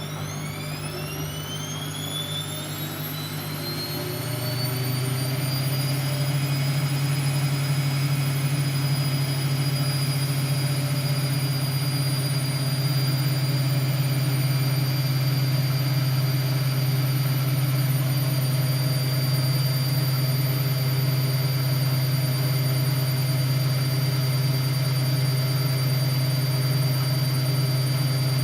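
Siemens Siwamat C10 washing machine's motor speeding up into a spin: a rising whine that levels off after about five seconds into a steady high-speed spin over a deep hum.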